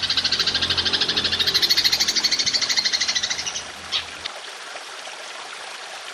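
Belalang emas (golden grasshopper) masteran call: a loud, high, rapid pulsed trill, about ten pulses a second, that stops about three and a half seconds in. A click follows, then a faint steady hiss of trickling water.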